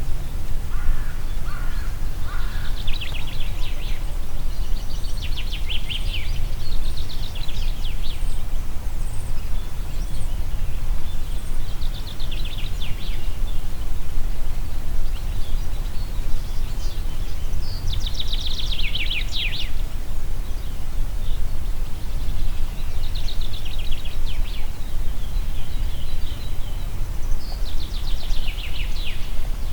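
Wind rumbling steadily through a forest while songbirds sing short, rapid trilled phrases every few seconds.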